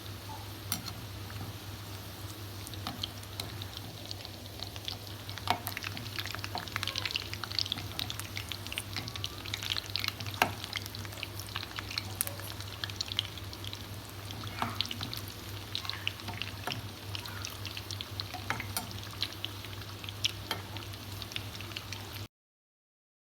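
Potato-and-egg snacks frying in hot oil: a steady crackling sizzle with scattered sharp pops, over a steady low hum. It cuts off abruptly near the end.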